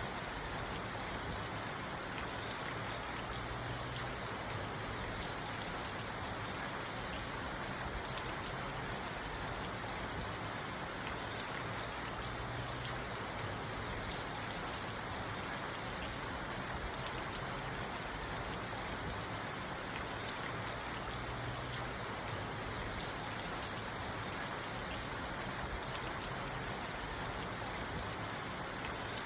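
Steady rain falling on a parked car, heard from inside the car.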